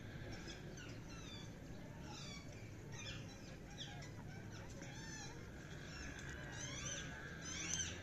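Birds chirping: a string of short, high chirps, about a dozen, with the loudest near the end.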